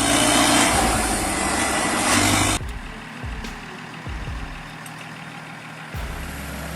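Heavy machine's engine running, with a loud hiss over it for the first two and a half seconds that cuts off abruptly, leaving a quieter low engine rumble.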